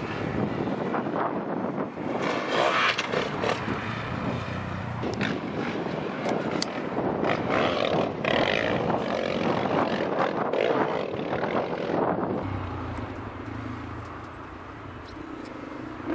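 Motocross sidecar outfit's engine revving hard, rising and falling as it races over the dirt track. About twelve seconds in it drops to a quieter, steadier, lower engine note.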